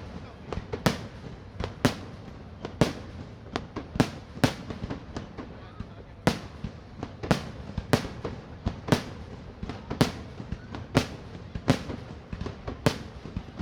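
Aerial fireworks shells bursting in a steady series of sharp bangs, about one a second, with fainter cracks between them over a low rumble.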